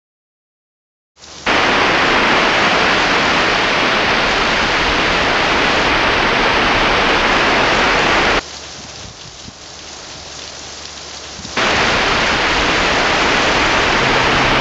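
Heavy rain, a loud steady hiss that cuts in abruptly about a second in, drops suddenly to a much quieter rain sound for about three seconds past the middle, then cuts back in at full strength.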